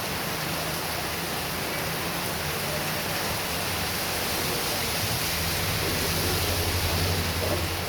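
Heavy rain pouring steadily as a dense, even hiss. A low hum comes up about five seconds in and holds to the end.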